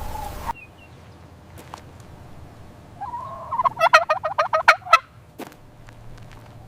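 A farmyard fowl calling once: a short held note that breaks into a fast, warbling run of pulses lasting about two seconds, starting about three seconds in.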